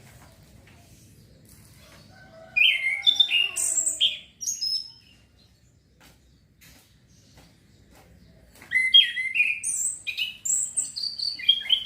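A male orange-headed thrush singing two bursts of quick, varied, sliding notes, the first starting about two and a half seconds in and the second near the end. It is a young male still learning its song.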